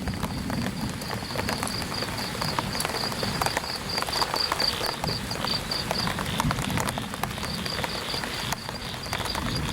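Light rain pattering on an umbrella held overhead, a dense run of small ticks over a soft hiss, with footsteps on wet ground. A high, rapidly pulsed chirping, about four or five pulses a second, runs for several seconds, stops about six seconds in, and starts again near the end.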